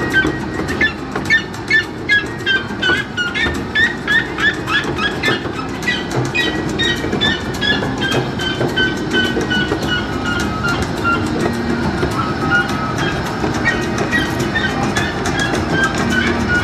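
Miniature ride train running on its track: a steady rumble with a rhythmic high-pitched squeal repeating a few times a second, slowly falling in pitch through the middle.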